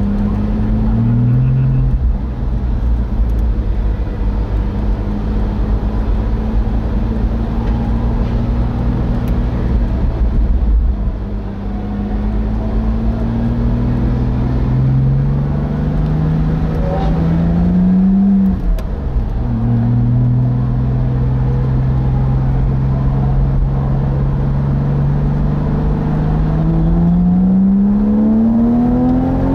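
Porsche Boxster engine heard from inside the open cockpit, pulling gently at low speed: its note climbs slowly and drops back at each upshift, several times, over a steady low rumble.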